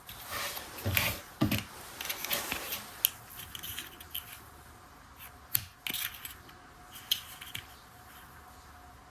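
Hands handling small plastic toy parts: rustling and rubbing with a string of light clicks and taps, busiest in the first three seconds and then sparser.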